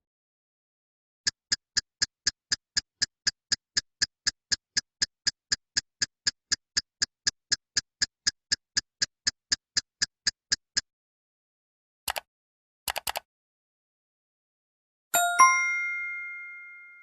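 A sequence of stock sound effects. First a clock ticking fast and evenly, about four ticks a second for roughly nine seconds. Then computer mouse clicks, a single click followed by a quick double click. Last, a bright 'correct answer' ding chime that rings out and fades.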